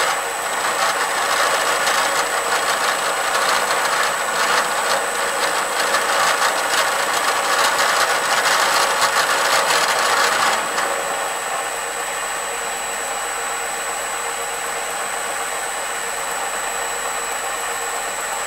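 Bridgeport milling machine taking a dry facing pass on steel with a four-tip carbide fly cutter: a rough, rattly cutting noise with many small knocks. About ten and a half seconds in, the cutting stops and the machine runs on with a steadier, quieter hum as the cutter spins clear of the work.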